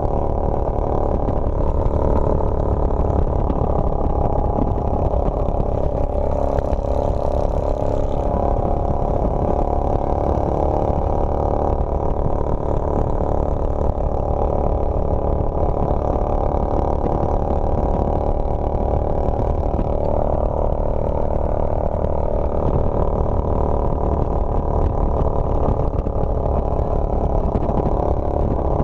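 Motorcycle engine running steadily while riding, with a steady low rumble and no change in pitch.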